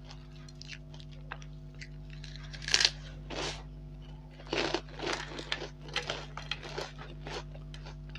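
Mouth crunching of a crispy fried snack: one loud bite about a third of the way in, then a run of chewing crunches.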